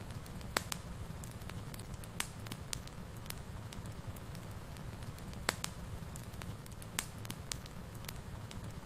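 Wood fire burning in a fireplace, a steady low rumble with irregular sharp crackles and pops, the loudest about half a second, two, five and a half and seven seconds in.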